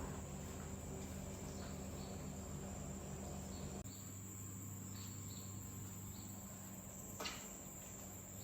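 Night insects, crickets, chirring steadily in one high thin tone over a low steady hum. The background changes abruptly about four seconds in, and there is a short click near the end.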